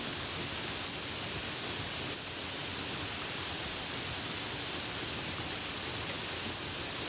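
Steady rain falling: an even hiss with no thunder.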